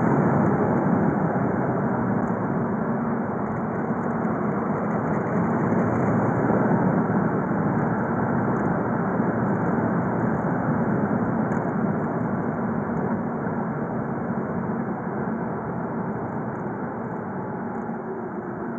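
Volkswagen Golf V's 2.0 TDI (BKD) four-cylinder diesel running as the car drives, mixed with road noise, as a steady rumble that slowly grows quieter.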